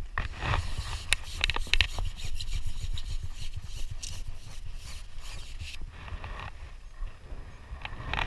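Close rubbing and scraping handling noise with scattered sharp clicks, densest in the first two seconds and thinning out after, over a steady low rumble.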